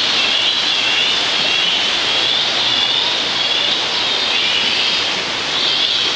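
Waterfall rushing steadily, a loud, even roar of falling water with a hiss that wavers slowly in its upper part.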